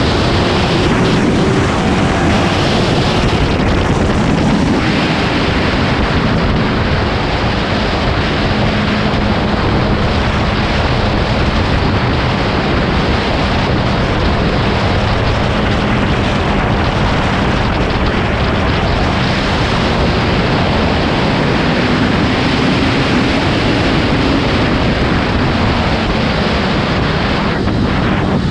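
Motorcycle at speed, its engine note slowly rising and falling under heavy wind rush on the microphone.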